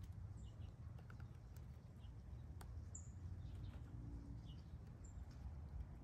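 Faint short high chirps from small birds, a few times, over a steady low outdoor rumble, with a couple of faint sharp ticks.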